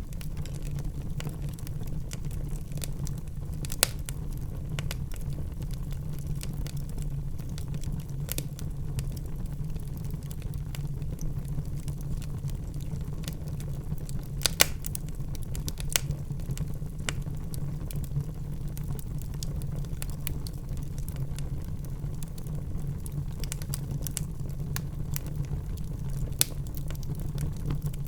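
Wood fire burning in a fireplace: a steady low rumble of flames with scattered small crackles and a few sharp pops, the loudest about 4, 14½, 16 and 26 seconds in.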